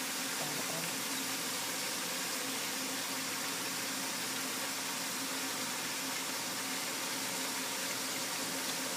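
Onions, tomatoes and peppers sizzling steadily in oil in a frying pan.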